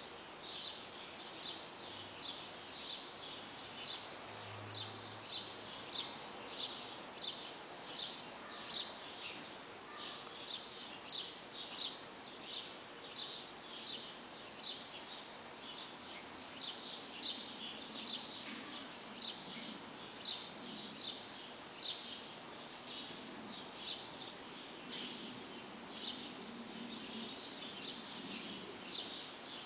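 A bird chirping over and over: short, high, sharp chips about twice a second, over faint outdoor background noise.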